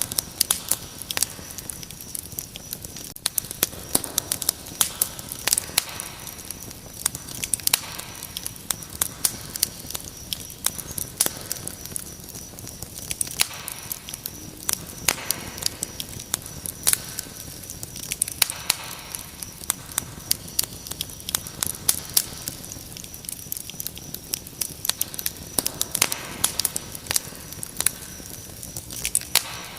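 Wood fire crackling, with many irregular sharp pops and snaps, over a steady high-pitched trill of crickets.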